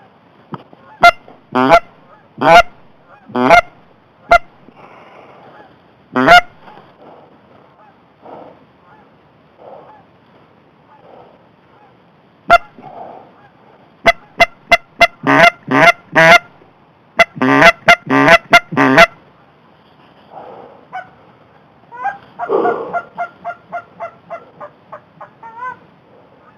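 Goose honks and clucks, loud and close, in quick runs: a few spaced calls early, a rapid string of about a dozen in the middle, and near the end a faster run of short notes.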